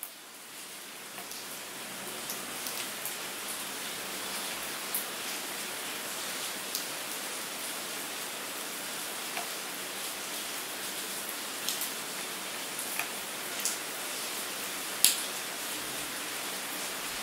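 Steady rain: an even hiss of rainfall with scattered sharp taps of single drops, one louder tap near the end. It fades in over the first few seconds.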